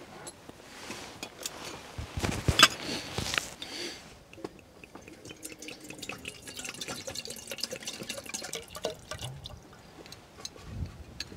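Water dripping, with many scattered small clicks and a louder rush of noise about two seconds in.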